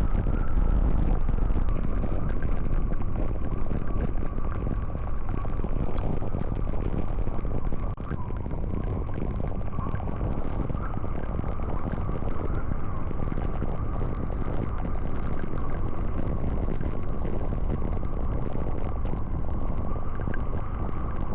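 Steady rush of strong wind with a deep rumble and a thin, faintly wavering whistle held throughout; the level drops a little about eight seconds in.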